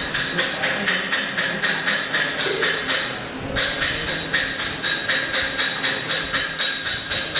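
Rapid, regular knocking on metal, about three to four strikes a second, with a short pause about three seconds in.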